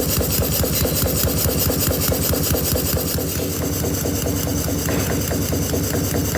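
Small model engine running steadily with a fast, even rhythm of mechanical knocks.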